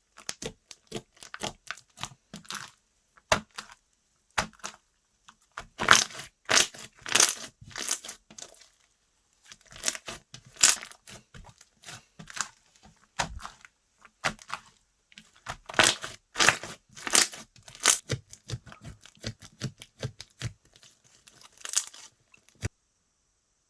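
Slime being squeezed, stretched and pressed by hand, giving bursts of crackling, popping clicks with short pauses between them. The sound stops abruptly near the end.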